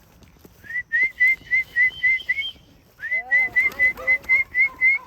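A person whistling a rapid string of short, identical notes to call pigeons back into the loft for feeding. There are two runs of about four quick notes a second, with a brief pause between them about three seconds in.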